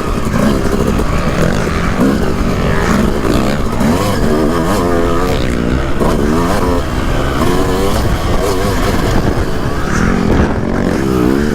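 Suzuki RM250 single-cylinder two-stroke dirt bike engine being ridden hard, the revs climbing and dropping again and again, every second or two, as the rider works the throttle.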